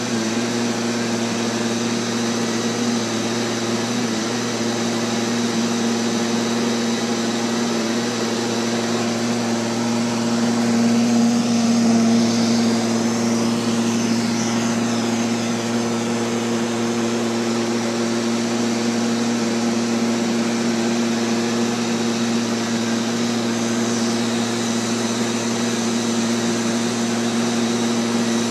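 Neato XV-11 robotic vacuum running, a steady motor and brush hum heard close up from on board, getting a little louder about ten to thirteen seconds in.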